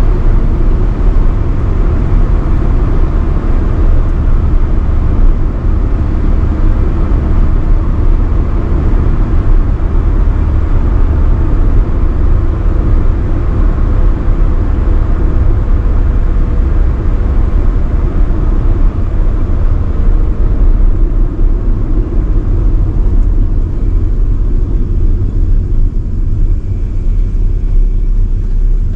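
A 1985 Nissan B12 Sunny driving steadily at speed: a loud, even rumble of engine, tyres and wind.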